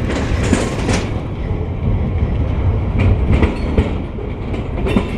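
Freight train rolling past at close range: a steady heavy rumble with wheels knocking and clicking over the rail joints.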